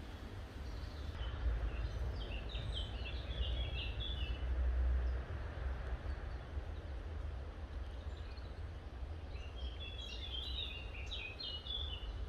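A songbird singing two phrases of quick, short, high notes, one a couple of seconds in and another near the end, over a steady low rumble.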